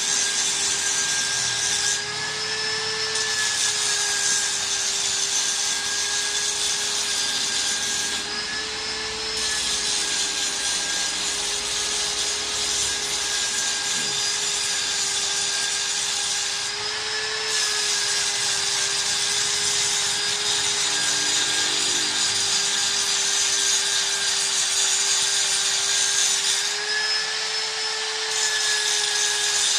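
An electric power tool running continuously at a steady high whine with a hiss, its pitch lifting briefly every several seconds.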